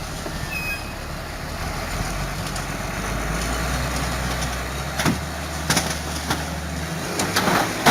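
Heavy vehicle engine running with a steady low hum, with a few sharp knocks about five seconds in.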